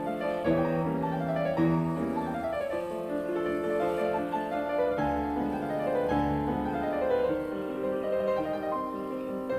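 Background piano music: a gentle classical-style piece with flowing runs of notes.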